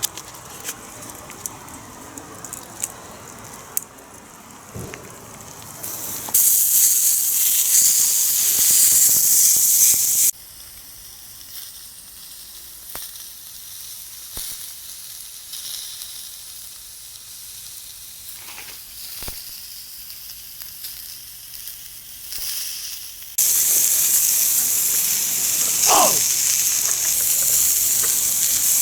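Loud, high sizzling hiss of a skillet on a wood fire, coming in two stretches that start and stop abruptly, with crackling pops of the wood fire in the quieter parts between them.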